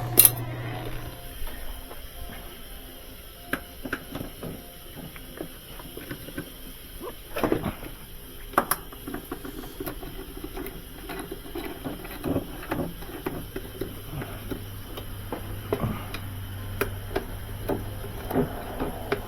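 Scattered clicks and knocks of metal parts being handled, the sharpest a single click about a quarter second in, over a low steady hum near the start and again in the second half.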